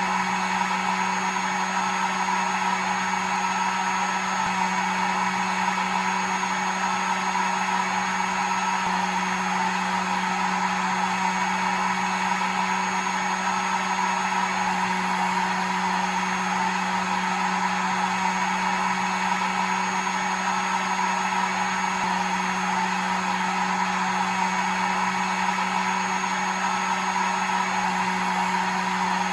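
Electric hair dryer running steadily at one speed: an even rushing of air with a low motor hum underneath, unchanging throughout.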